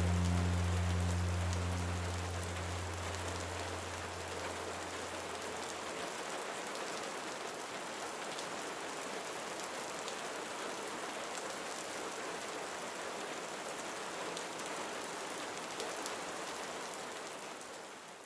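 Steady rain falling, with the last low held notes of background music fading out over the first few seconds. The rain fades out near the end.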